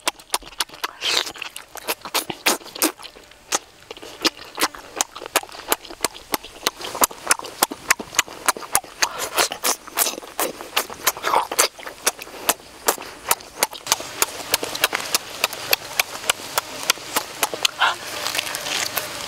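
Close-up chewing and lip-smacking of someone eating cooked octopus: a steady run of sharp, wet mouth clicks, several a second, getting denser and louder from about halfway through.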